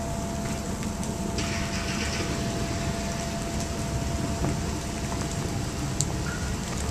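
Steady rain falling during a thunderstorm, an even hiss with scattered small ticks over a continuous low rumble, and a faint steady hum.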